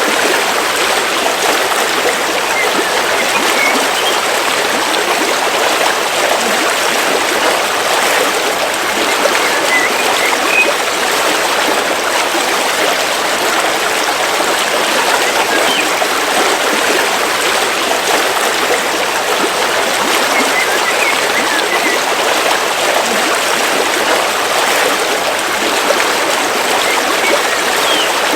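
River water flowing steadily over rocks, an even rushing and trickling, with a few faint short bird chirps now and then.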